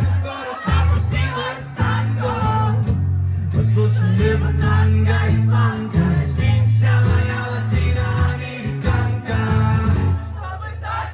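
Live band music played loud: an instrumental passage with guitar over long held bass notes.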